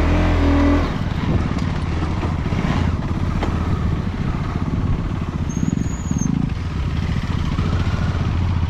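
Off-road motorcycle engine running on a trail ride, with a steady rapid beat and a louder pitched burst in the first second.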